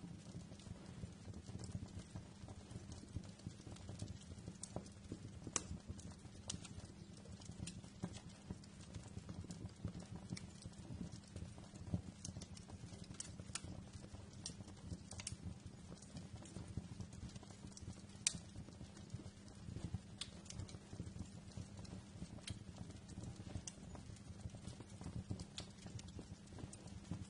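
Wood fire crackling in a fireplace: a steady low rumble of burning with irregular sharp pops and snaps, a few of them noticeably louder.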